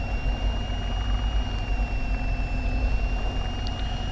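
Cessna 172's engine idling on the ground, heard through the cockpit intercom: a steady low drone with a thin, steady high tone above it.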